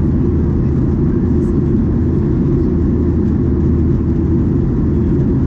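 Steady, low cabin rumble of a Boeing 737-800 in flight: its jet engines and the airflow over the fuselage, heard from inside the passenger cabin.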